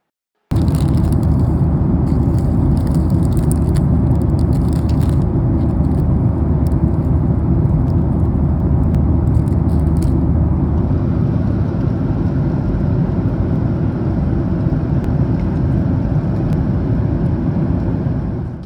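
Loud, steady rumble of jet engines and rushing air heard inside a Boeing 737-900ER's cabin. Crackling noise rides on top over the first ten seconds or so.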